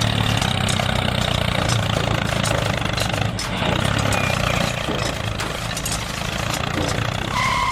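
Small engine of a miniature DIY tractor running steadily.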